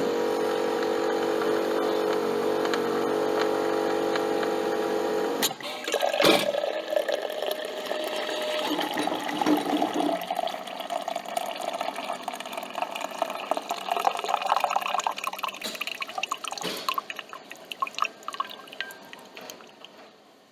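Coffee machine running with a steady hum for about five seconds, then a knock and liquid streaming and dripping into a cup, fading away near the end.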